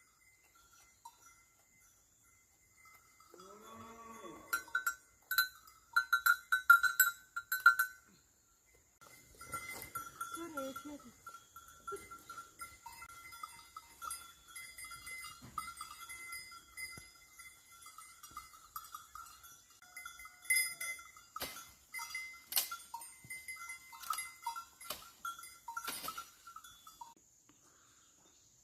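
Bells on livestock clinking and ringing irregularly, with an animal bleating about four seconds in and again around ten seconds in.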